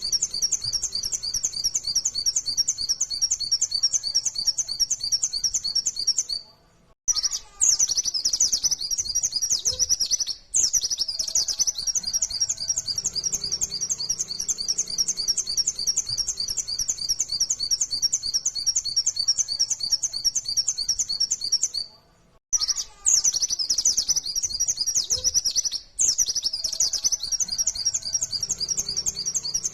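White-eye (pleci) singing a fast, high-pitched run of rapid repeated notes, the rapid-fire 'nembak' style of song, broken by short pauses. The same passage comes round again about every fifteen seconds, as in a looped song-lure recording.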